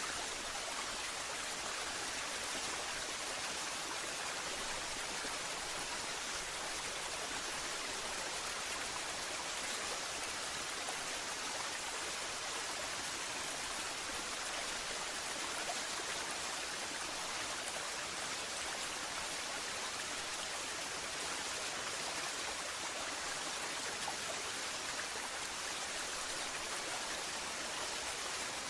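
Waterfall, falling water rushing in a steady, even hiss with little low rumble.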